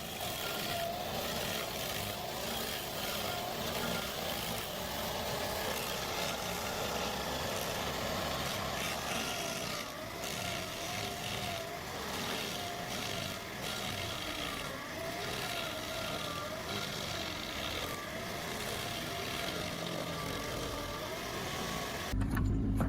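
A stump grinder's engine running steadily under load, with a faint whine that wavers up and down as the cutting wheel works. Near the end the sound changes abruptly to a louder, deeper machine rumble.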